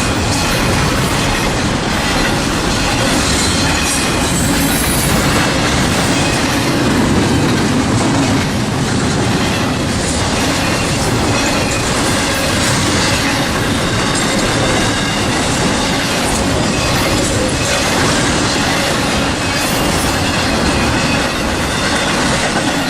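Norfolk Southern freight train rolling steadily past close by: a continuous loud rumble and clatter of wheels on the rails, with a thin wheel squeal running through it.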